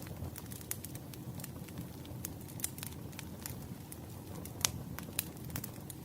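Wood fire burning: a steady low rumble with scattered sharp crackles and pops, the loudest pop about four and a half seconds in and another just after five seconds.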